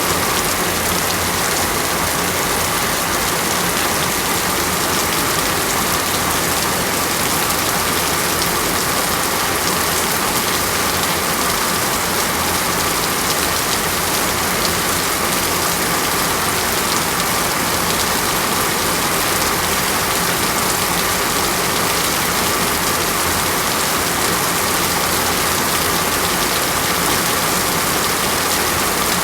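Steady rain falling, an even unbroken hiss with no pauses or surges.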